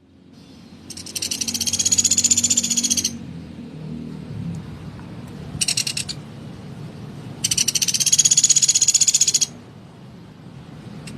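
Pelatuk beras woodpecker calling in rapid, high rattling trills: two long rattles of about two seconds each, with a short burst between them.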